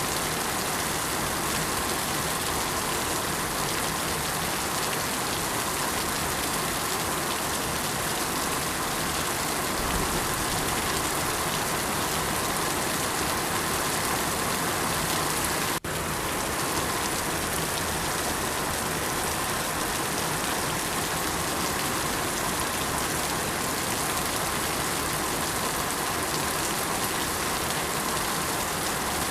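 Steady rain falling, a dense even hiss of drops on surfaces, with a momentary dip in level about halfway through.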